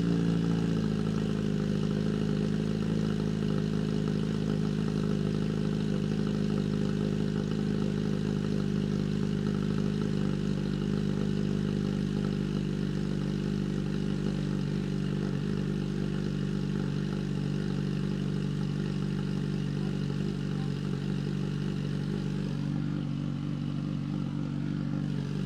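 Kawasaki Z H2's supercharged inline-four idling steadily through an aftermarket slip-on exhaust.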